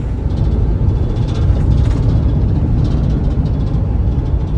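Chevrolet 6500 tow truck under way on the road: a loud, steady low rumble of engine and road noise, with faint light rattles over it.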